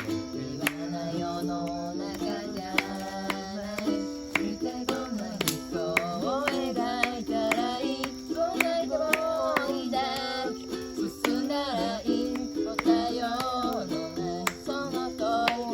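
Ukulele strummed in steady chords with a voice singing along, the singing clearest from about the middle on.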